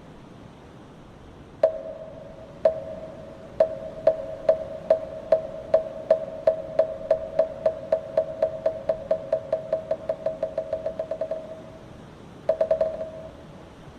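Moktak (Korean Buddhist wooden fish) struck with a hollow ringing note: three slow strokes, then strokes quickening and growing softer into a fast roll, the accelerating roll used in temple chanting. After a pause, a brief quick roll near the end.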